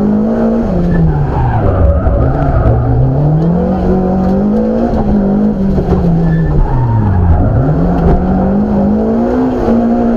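BMW M3 rally car's engine heard from inside the cabin, driven hard on a stage. Its pitch climbs under acceleration, then drops sharply as the car brakes and shifts down, about two seconds in and again about seven seconds in, before climbing again.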